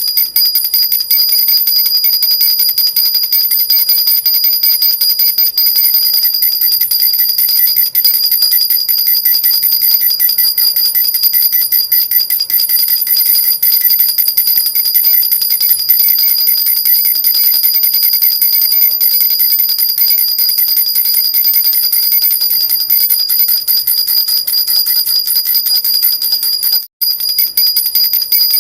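Metal jhunjhuna baby rattle shaken without pause: a dense, rapid jingling of small bells over steady high ringing tones. It cuts out for a moment near the end.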